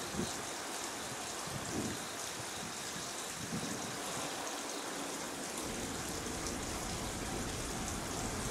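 A steady hiss, with the low rumble of an approaching 115-series electric train building from about halfway through.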